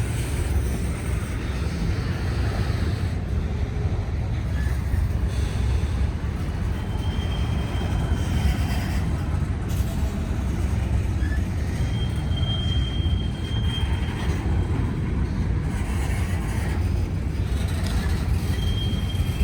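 Norfolk Southern freight train rolling past, a steady low rumble of wheels on rail, with three brief high-pitched wheel squeals.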